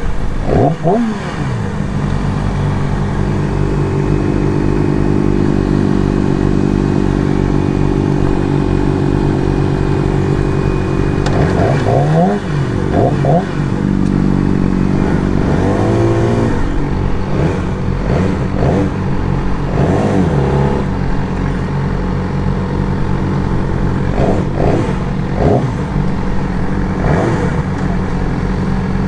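Motorcycle engine running steadily while riding, its revs rising and falling briefly several times.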